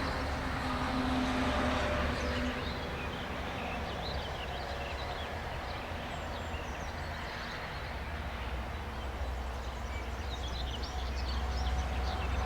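A train running past on the track: a steady rumble of wheels on rail with a low hum underneath.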